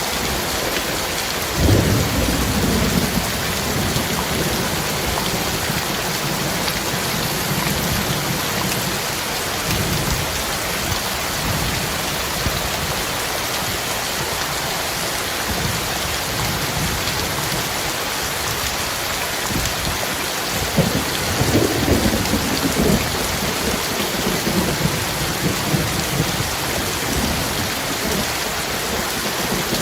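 Heavy rain falling steadily, with thunder. A sudden clap about two seconds in rumbles on for a second or two, and a second rolling rumble comes about twenty-one seconds in.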